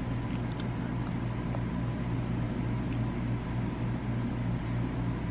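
A steady low mechanical hum with an even hiss behind it.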